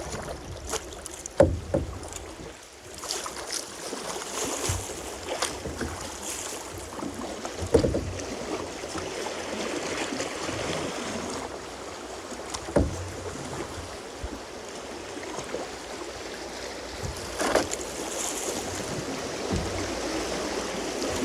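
Canoe running a small river rapid: a steady rush of moving water, with a few sharp knocks from the boat and paddle.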